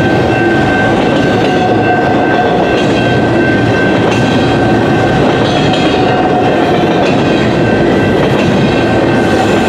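Long intermodal freight train rolling past at speed: a steady loud rumble of wheels on rail with clickety-clack over the joints and a steady high-pitched ring.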